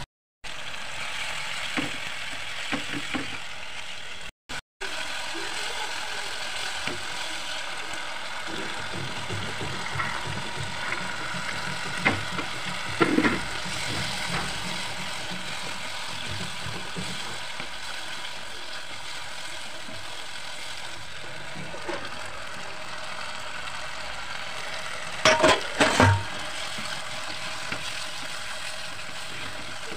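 Tomato and onion masala sizzling in a non-stick pan while a wooden spatula stirs and scrapes through it, with scattered clicks and louder bursts of scraping and clatter near the middle and twice a few seconds before the end.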